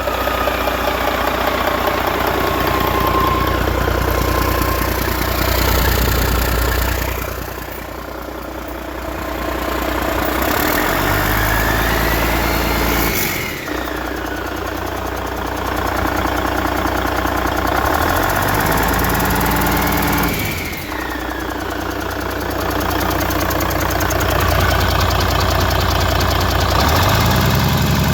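1997 Cummins N14 Celect Plus 14-litre inline-six diesel engine running and being revved up and let back down about three times.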